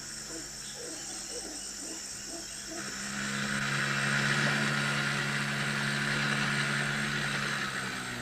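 Howler monkeys calling: a run of low rhythmic grunts swells about three seconds in into a loud, drawn-out roar, with insects trilling steadily behind.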